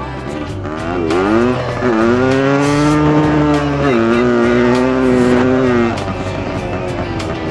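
Dirt bike engine revving: the pitch climbs about a second in, holds high, drops a step about four seconds in and eases off near six seconds.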